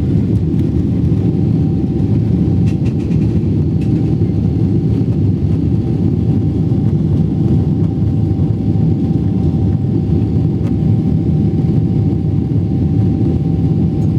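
Cabin noise inside a Boeing 777-300ER in flight: a steady low rumble of its GE90 jet engines and rushing air, with a faint steady whine.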